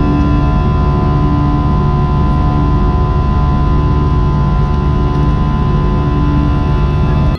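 A vehicle running steadily at constant speed: a loud, even hum with several fixed tones that hold their pitch throughout.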